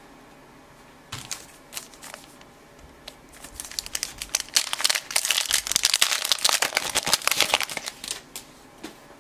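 Crinkling of a baseball card pack's wrapper being handled and crumpled: a dense crackle through the middle few seconds, after a few light taps of cards.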